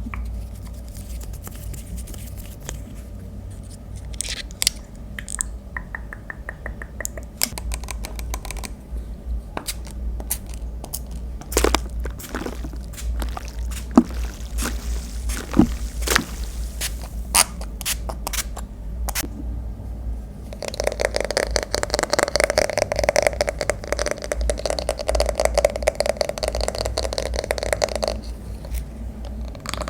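Close-miked hair-care ASMR handling sounds: scattered taps and clicks, a short run of quick even ticks, then about 21 seconds in a roughly seven-second stretch of rapid scratching and scraping. A low hum runs under it all.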